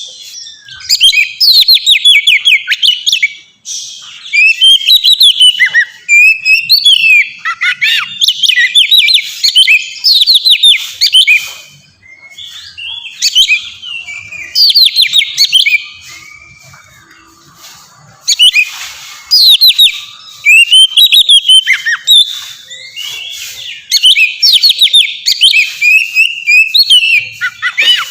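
Oriental magpie-robin (kacer) singing loudly in long, rapid phrases of varied whistled notes, with brief pauses between phrases and a quieter stretch about two thirds of the way through.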